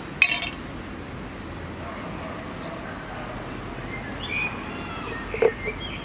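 A glass jar's metal screw-top lid clinks sharply about a quarter second in, with a second sharp knock near the end. Birds chirp briefly in the background.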